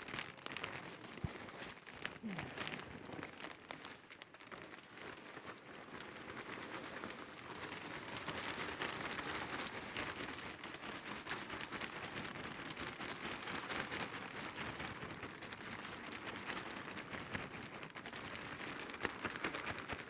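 Loose wood shavings being scattered and shaken out over a coop floor: a steady rustling hiss with small scattered ticks, growing a little louder about six seconds in.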